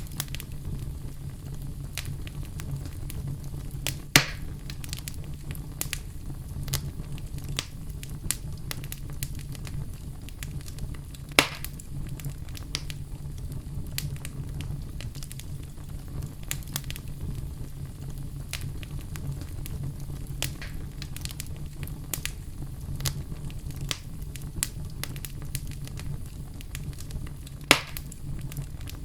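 Wood fire in a fireplace crackling, with many small crackles over a steady low rumble and three louder, sharper pops spread through.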